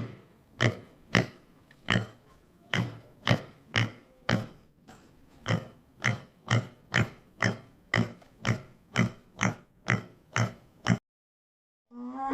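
A pig grunting over and over in short, separate grunts, about two a second, stopping near the end.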